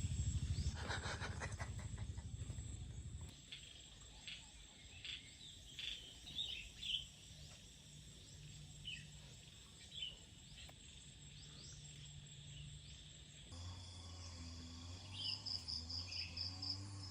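Faint outdoor farm ambience: scattered short bird chirps over insect noise. A low rumble fills the first three seconds, and after an abrupt change in background in the last few seconds a steady low hum runs under a short rapid trill.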